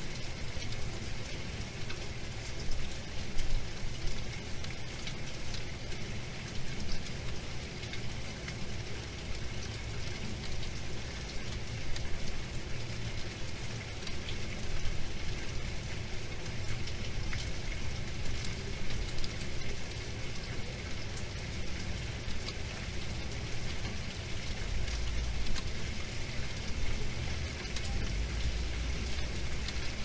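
Waterfall: steady rushing and splashing of water pouring down a rock face. Near the end a low rumble comes and goes twice.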